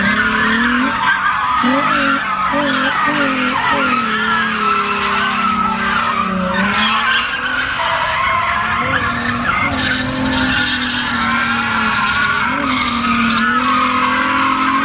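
A car doing donuts: its tyres squeal without a break while the engine revs rise and fall.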